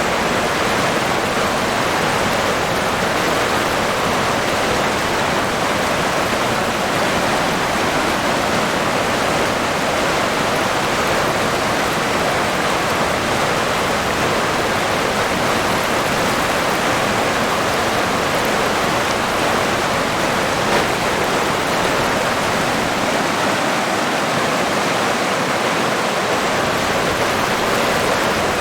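River water flowing and rushing over rocks: a steady, even rush of moving water.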